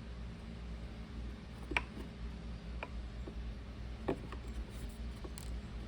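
A few scattered light clicks and taps of hands working small plastic parts of an ice maker, refitting a greased pump part, over a steady low hum.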